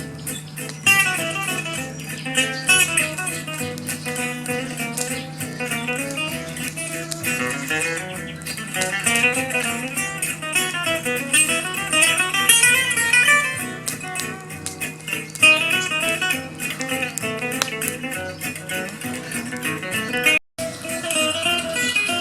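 Music of a plucked acoustic guitar, quickly changing picked notes over a steady low hum. About twenty seconds in, the sound cuts out completely for a split second, then resumes.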